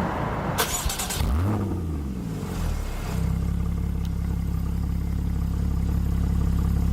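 Porsche 981 Boxster's flat-six engine, fitted with an M&M aftermarket exhaust, starting up. The revs flare and then fall back, settling into a steady idle about three seconds in.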